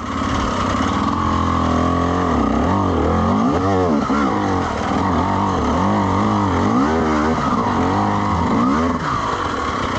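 Dirt bike engine running just after a restart, revved up and down in a series of throttle blips.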